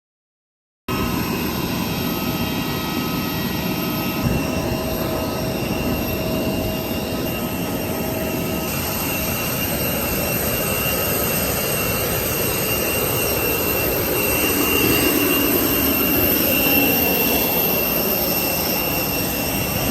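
Steady drone of a jet airliner's cabin, a dense whooshing noise with a few faint steady whining tones, starting abruptly after a second of silence.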